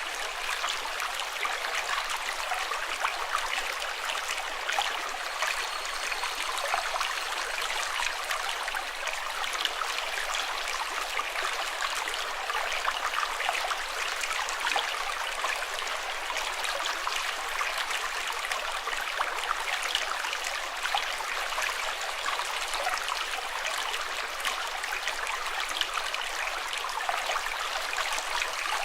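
Running water, a steady babbling flow dense with small splashes and no let-up.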